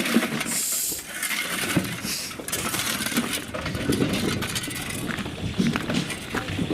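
Stone being unloaded from a railway work train, clattering and rattling in a dense, irregular stream of knocks and clinks.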